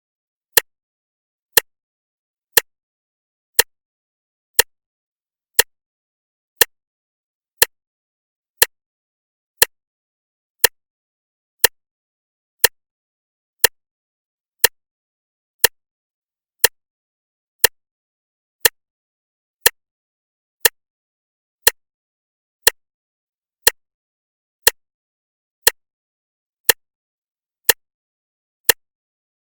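Clock ticking, one short tick each second, evenly spaced, with nothing else heard between the ticks.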